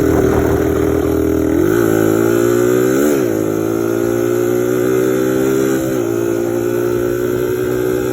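1986 Suzuki DR100's single-cylinder four-stroke engine running steadily, its pitch briefly falling and rising twice a couple of seconds in, then holding steady.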